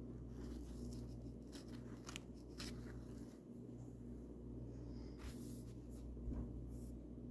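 Paintbrush brushing paint onto a bird house: faint, scattered scratchy strokes, half a dozen or so, over a steady low hum.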